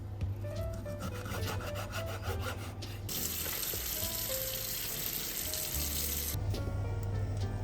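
Light tapping and rubbing handling sounds under soft background music. About three seconds in, a steady hiss starts and lasts about three seconds, then cuts off.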